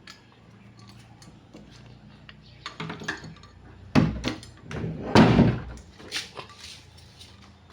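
A gate being shut: a sharp bang about four seconds in, then a longer rattling clatter about a second later, among smaller knocks and clicks.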